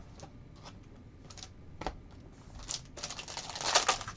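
Trading cards being handled and flipped through: a few light clicks at first, then from about three seconds in a quick run of cards sliding and snapping against each other.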